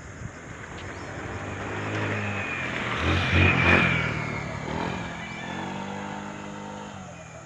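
A motor vehicle passing by, its engine and road noise growing louder, loudest about three and a half seconds in, then fading away.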